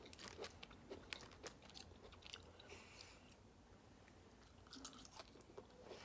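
Faint close-up eating sounds: a plastic fork picking at food in a plastic takeout tray, then a forkful of green beans taken into the mouth and chewed, with many small sharp wet mouth clicks.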